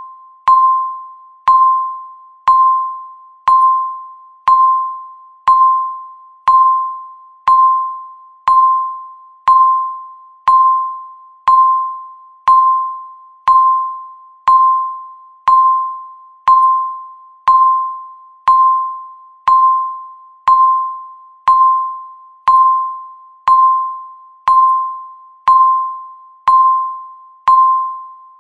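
Countdown timer beep marking each second: a single clear mid-pitched tone, struck sharply and fading away, repeating evenly about once a second.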